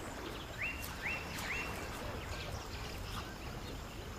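A bird calls three quick rising whistled notes in a row, over a steady outdoor background hiss.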